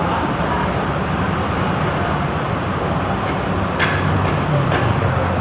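Bus engine running steadily amid road traffic noise, with a few short sharp clicks about four seconds in.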